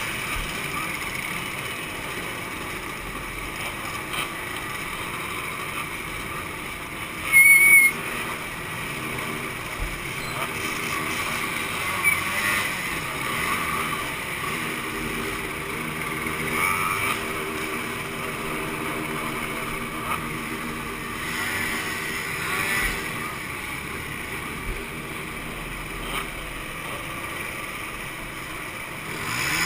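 Two-stroke motorcycle engines running at varying speeds, with a steadier engine note through the middle. A short, loud, high-pitched tone sounds once about seven seconds in.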